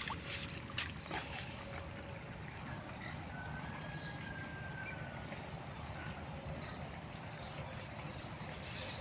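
Rural outdoor ambience: a steady low rush with a few faint bird calls, one a thin drawn-out whistle about three seconds in, and a few light knocks in the first second.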